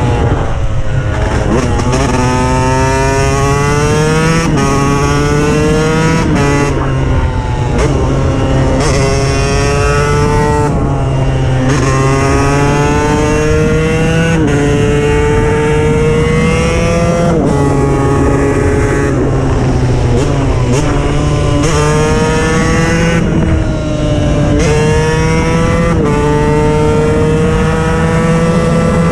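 KTM 125 EXC's single-cylinder two-stroke engine revving hard under acceleration: its pitch climbs and falls back again about a dozen times as the bike pulls away repeatedly.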